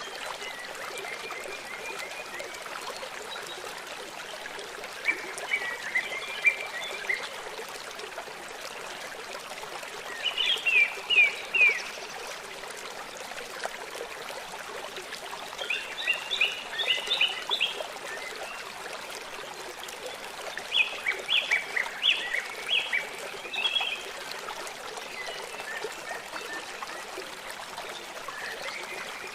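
A songbird singing short phrases of quick downward-sweeping notes, repeated about every five seconds, over the steady rush of trickling water.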